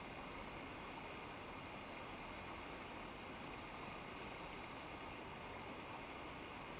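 Steady rushing of a mountain river, an even noise with no distinct events.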